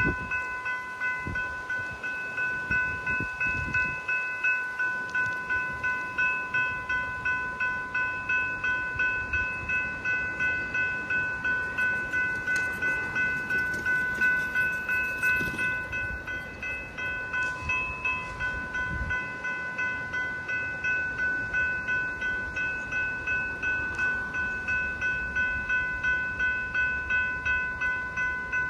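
Level crossing electronic bell ringing steadily during an activation, about two rings a second.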